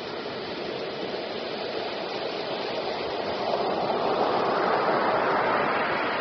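Rushing water, a steady wash of noise that swells about four seconds in and eases off near the end.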